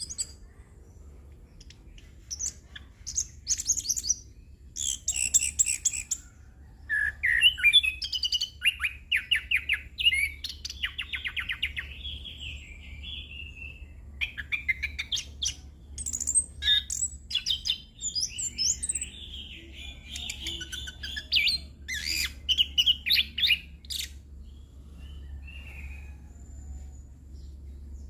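Chestnut-capped thrush (anis kembang) singing a long, varied song of separate phrases, whistles and rapid trills broken by short pauses. This is the continuous 'ngerol' delivery full of 'isian' fill-in phrases, over a faint steady low hum.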